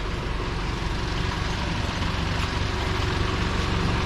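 A motor vehicle's engine running steadily, a constant low rumble with road or wind noise over it.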